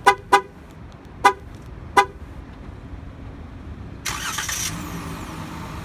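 Four short chirps from a 2019 Dodge Grand Caravan's horn. About four seconds in, a brief burst of starter noise as its 3.6-litre V6 starts, then the engine settles into a steady idle.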